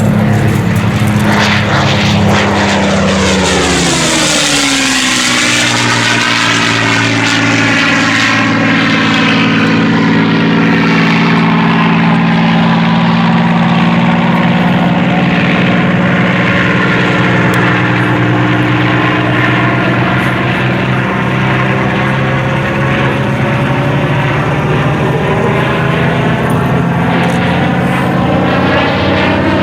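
Rolls-Royce Merlin V12 piston aero engine of a World War II propeller fighter flying past close by. Its note drops sharply in pitch two to four seconds in as it passes, then runs on as a steady, shimmering drone.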